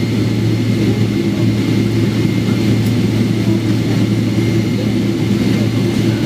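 Steady low drone inside the cabin of a Boeing 777-300ER taxiing after landing, its GE90 engines running at low power.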